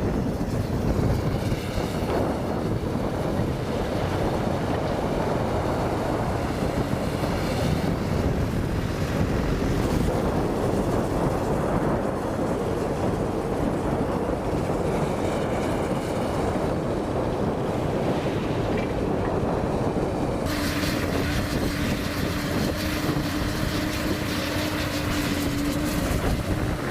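Komatsu PC200 hydraulic excavator working, its diesel engine running under load with a faint hydraulic whine now and then, under heavy wind noise on the microphone. About two-thirds of the way in the sound changes, and a steady hum holds for several seconds.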